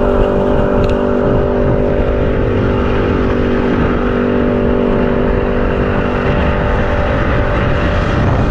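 Boat engine running at a steady pitch, with wind buffeting the microphone; the engine tone stops near the end.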